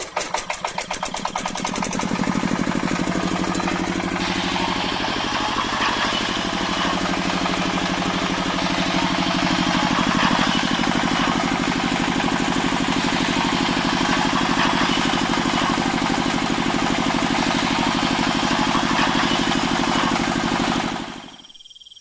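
An engine starting up, chugging faster over the first two seconds, then running steadily at an even idle-like beat until it cuts out about a second before the end.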